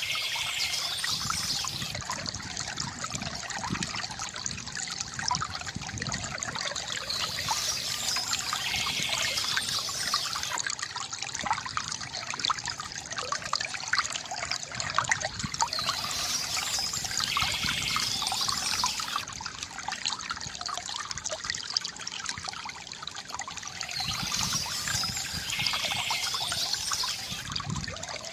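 Water from a bamboo fountain trickling and gurgling steadily, with a brighter, hissier swell that comes and goes about every eight or nine seconds.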